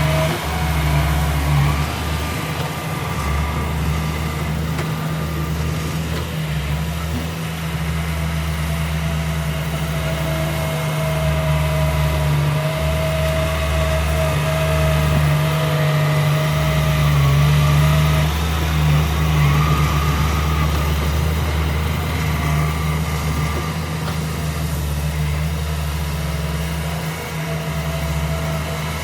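Heavy diesel engine of earthmoving machinery running steadily, a deep continuous drone with a thin whine above it that fades in and out.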